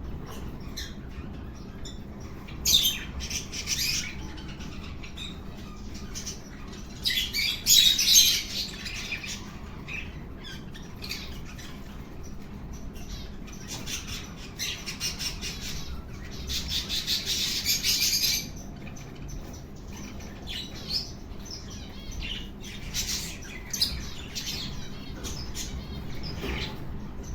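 Small birds chirping in several bursts of quick, high chirps and trills, loudest about seven to eight seconds in and again past the middle, over a low steady background noise.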